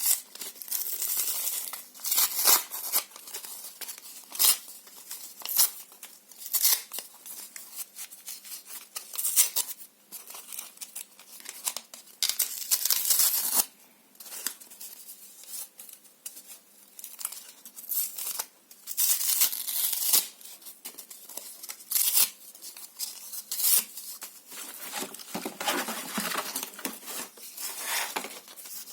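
Paper and cardboard being torn in a long run of irregular rips, some short and sharp, some drawn out over a second or more, with crinkling between them.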